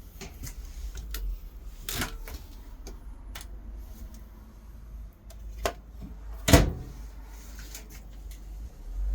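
Clicks and knocks of cabinet or appliance doors and latches being handled in a small room, with a sharper knock about two seconds in and the loudest thump about six and a half seconds in, over a low rumble.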